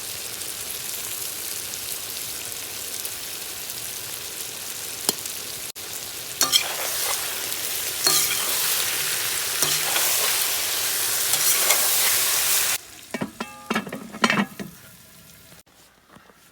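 Food sizzling in hot oil in a kazan, the sizzle getting louder about halfway through, with clicks of a utensil stirring. Near the end the sizzling stops abruptly and a few metallic knocks and clinks follow.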